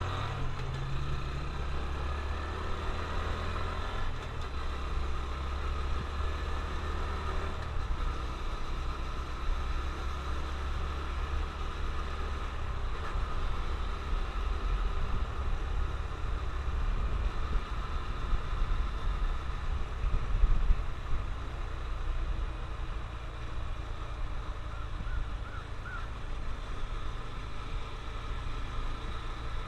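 Honda CT125 Trail's 125 cc single-cylinder four-stroke engine running during a ride, with a steady low rumble under it and a brief louder surge a little past two-thirds of the way through.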